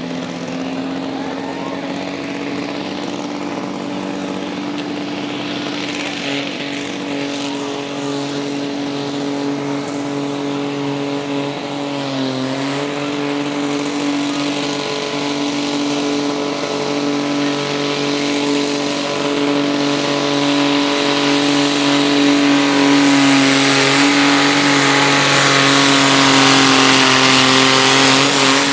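Diesel garden tractor engine held at high, steady revs under load while pulling a sled. It dips briefly in pitch about twelve seconds in, then recovers, and grows steadily louder toward the end.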